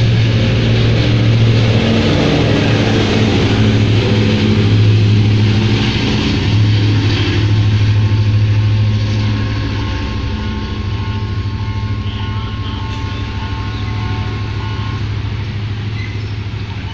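S13 diesel multiple unit passing and pulling away, a steady low engine drone with rumbling wheel and rail noise. It fades gradually from about nine seconds in as the train moves off.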